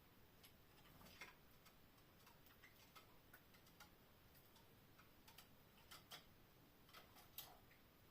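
Faint, irregular small clicks and taps from canaries in their cage, a few a second and unevenly spaced, over a quiet hiss.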